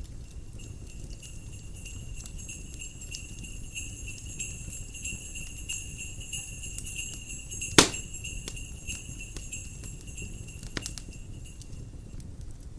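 Jingle bells shaking in a steady, shimmering jingle over crackling fire, stopping near the end. One sharp, loud pop of the fire comes about two-thirds of the way through, with smaller crackles scattered throughout.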